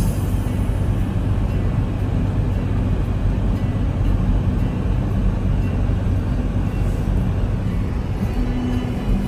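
A car in motion, with steady road and engine noise, over background music.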